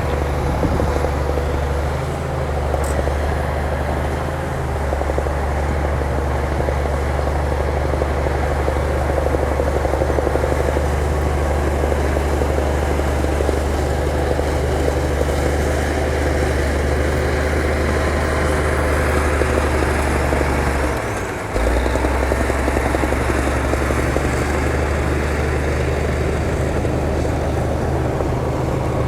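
Heavy earthmoving machine's diesel engine running steadily with a deep hum, dipping briefly about two-thirds of the way through.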